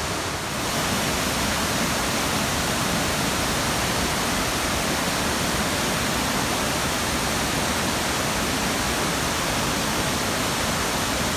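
Large waterfall: a steady, dense rush of falling water, a little softer in the first half second and then constant.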